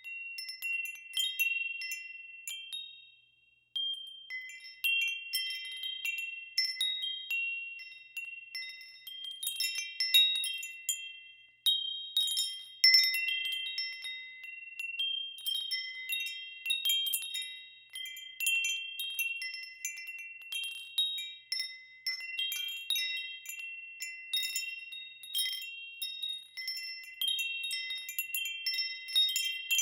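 Wind chimes ringing irregularly: several high, clear notes struck in overlapping clusters, each ringing on and fading, with a short lull a few seconds in.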